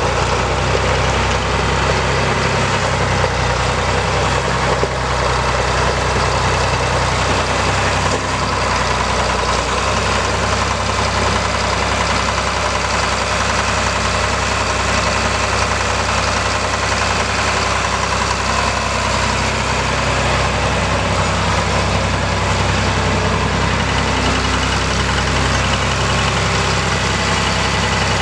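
1967 John Deere 4020 tractor's six-cylinder diesel engine running steadily at an even speed, with no revving.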